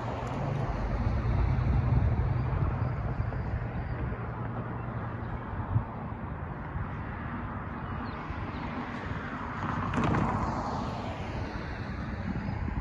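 Freight train rolling past: a steady rumble of wheels on rail, with a low engine hum in the first few seconds that fades away, a single clank about six seconds in and a louder swell near ten seconds.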